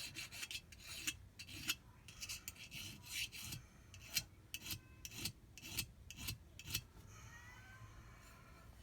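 Hand file scraping along the metal fin edge of a jet-ski pump impeller in short, uneven strokes, dressing off burrs left by debris damage. The strokes stop about seven seconds in.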